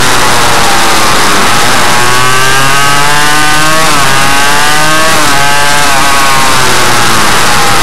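Suzuki RM85 minimotard's 85 cc two-stroke single-cylinder engine revving hard, its pitch climbing and then dropping sharply about four seconds in and again a second later, with a heavy rushing noise over it.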